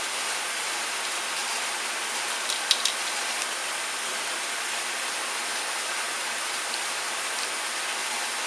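Steady hiss with a few small clicks about a third of the way in, from small screws and metal parts being handled.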